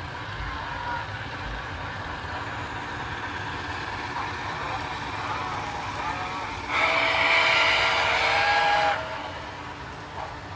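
Two MTH Berkshire model steam locomotives running at full speed along the track with a steady rolling noise, and a loud whistle blast from the locomotives' sound system lasting about two seconds, starting about seven seconds in.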